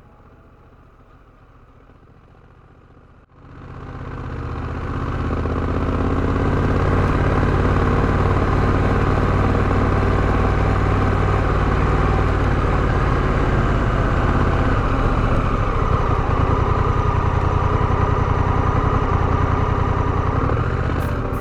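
Honda Rebel 1100's parallel-twin engine running steadily; it comes in suddenly a little over three seconds in, swells within about two seconds, then holds at an even level.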